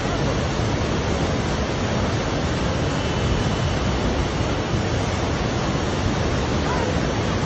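Steady rushing of a flood torrent: an even, unbroken wash of water noise.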